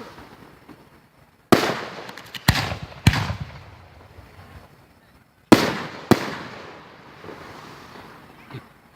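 Fireworks shells bursting: five loud booms in two groups, three close together and then two more a few seconds later. Each boom is followed by a long rumbling echo that fades out over a second or two.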